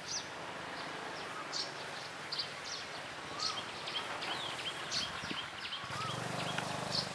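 Small birds chirping: short, high calls and little falling chirps scattered throughout, over outdoor background noise.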